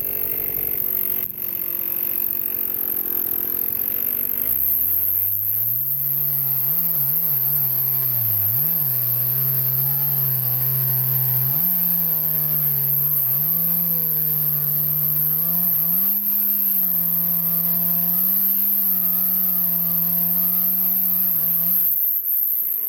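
Chainsaw cutting a log. Its high-revving engine note sets in about five seconds in and dips and recovers as the chain bites into the wood. The pitch falls away near the end as the throttle is released.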